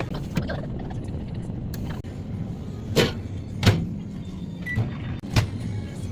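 A steady low hum with a few sharp knocks or clicks: two close together about three seconds in and one near the end.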